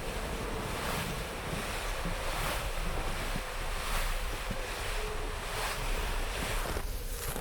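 Blizzard wind blowing steadily in gusts, with wind buffeting the microphone.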